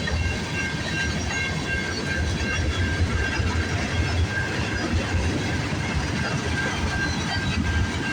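Freight train cars rolling past close by: a steady rumble of wheels on rail, with a thin high ringing from the wheels that keeps coming and going.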